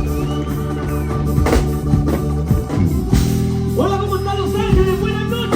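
Live band music with sustained instrument chords. A voice comes in over it about four seconds in, wavering in pitch.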